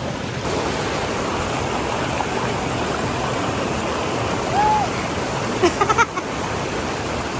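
Waterfall and stream water rushing with a steady, full roar. A brief voice sound comes about four and a half seconds in, and a few short ones just before six seconds.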